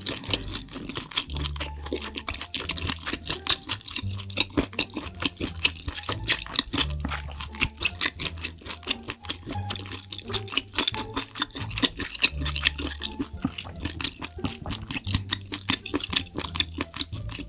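Close-miked wet chewing of spicy sauced octopus: rapid squelching and smacking clicks, many a second, with the mouth closed.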